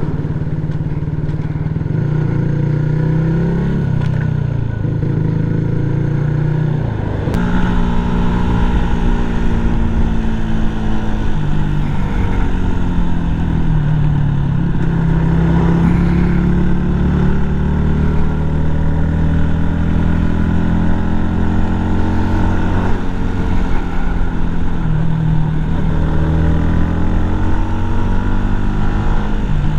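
Yamaha MT-125's single-cylinder 125 cc four-stroke engine running under way, its note rising and falling as the bike speeds up, slows and changes gear, with a clear shift about seven seconds in. Road and wind noise hiss underneath.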